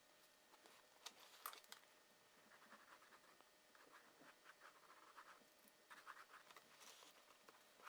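Faint scratching of a drawing tool on paper, a series of short strokes as lines are drawn, with a few sharper ticks about a second and a half in.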